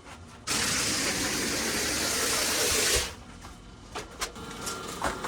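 Cement sprayer shooting mortar into a stone basement wall: a loud, steady hiss of air and spray for about two and a half seconds that cuts off suddenly, followed by a few light knocks.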